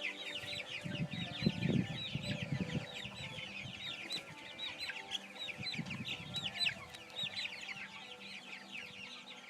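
A flock of young chicks peeping constantly, many short downward-sliding high peeps overlapping several times a second, with a few low muffled sounds among them.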